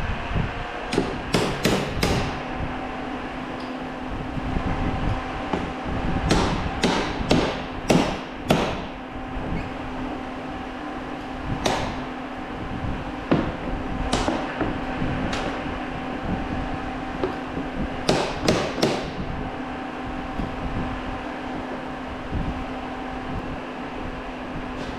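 Hammer blows on the seized gear shifter of a Polaris Sportsman 850 quad, struck in quick clusters of three or four with single blows between, to free a shift stuck in reverse. A steady mechanical hum runs underneath.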